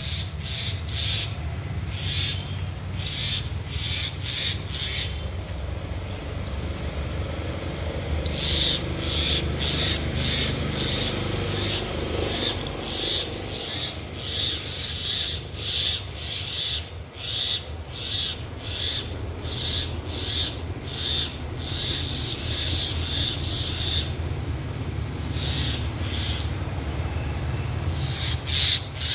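Birds giving short, sharp calls over and over, about two a second in long runs with a brief pause near the end, the kind of alarm calling birds make at a snake. A steady low rumble sits underneath.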